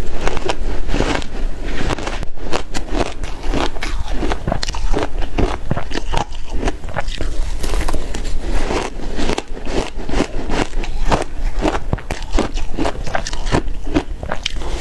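Close-up crunching of ice being bitten and chewed: a dense, irregular run of crisp crunches and crackles.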